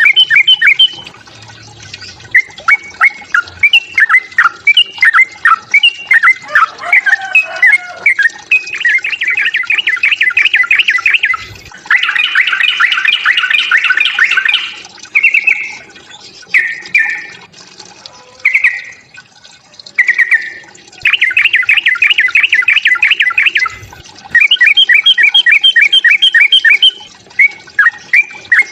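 Yellow-vented bulbul (trucukan) fighting calls: loud runs of rapid, repeated chattering notes, several bursts a few seconds long separated by short pauses.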